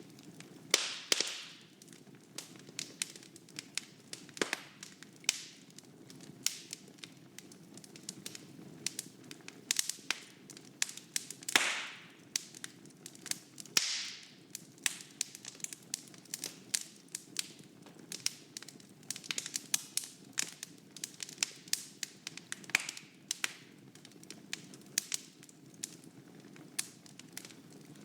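Wood fire in a fireplace crackling, with frequent sharp pops and snaps over a steady low rumble of the flames. There are a few brief hisses, about a second in and twice more around the middle.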